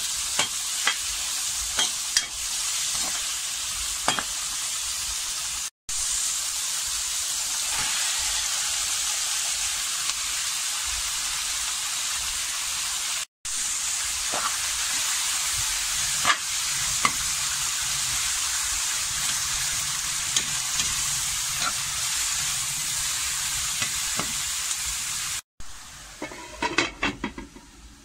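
Onion and tomato, then krill shrimp paste, sizzling in oil in a wok while a spatula stirs and scrapes, with scattered clicks of the spatula on the pan. Near the end the sizzle drops much quieter and a few knocks sound as a glass lid goes on the wok.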